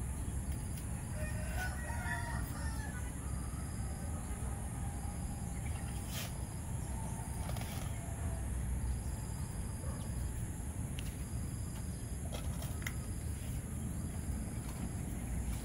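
A bird call with several stacked tones, from about one and a half to three seconds in, over a steady low rumble and an even high hiss, with a few faint clicks.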